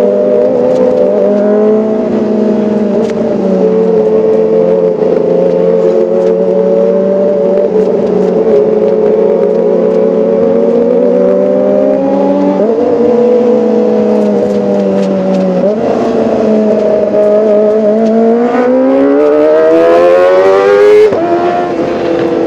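Kawasaki ZX-25R's inline four-cylinder engine running at high revs with a high, even note. The pitch jumps abruptly twice in the middle. Near the end the revs climb steadily, then drop sharply.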